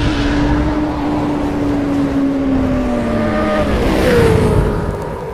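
Sound effect of a motorbike engine in an animated intro. A high engine note sinks slowly, then jumps higher about four seconds in with a rush of noise, and fades near the end.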